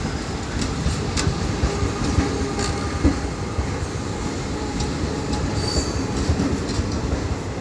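Mysuru Express passenger train running past close by: a steady rumble and hiss of wheels on rail, with irregular clicks and a brief high squeal about six seconds in.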